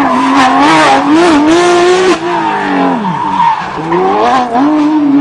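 Porsche 911 GT3 rally car's flat-six engine driven hard, its pitch climbing and falling repeatedly, dropping low about three and a half seconds in, then revving back up.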